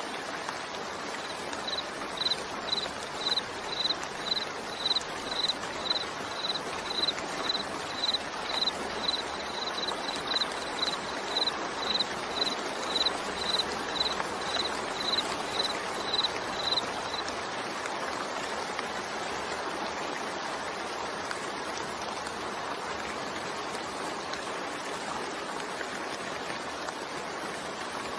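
Steady rain falling, an even hiss of water. For roughly the first half, a train of short, high pips repeats about twice a second, then stops.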